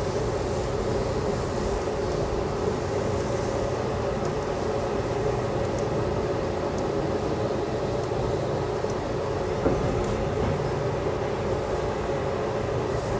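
Amtrak passenger train in motion, heard from inside the car: a steady rumble of wheels running on the rails, with one brief knock about ten seconds in.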